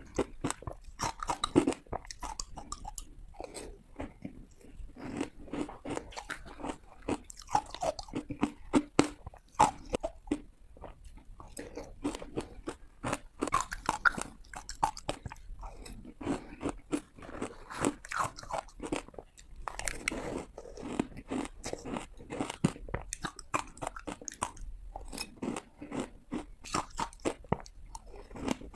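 A person biting into and crunching ice close to the microphone: repeated sharp cracks and crackles at an irregular pace, with chewing between bites.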